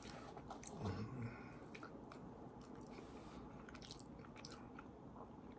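Faint chewing and wet mouth sounds of a person eating MRE chili mac, with scattered small clicks.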